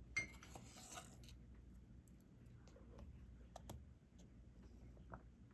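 Faint, scattered small clicks and taps of diamond painting drills being picked up and pressed onto the adhesive canvas, with a brief rustle in the first second or so.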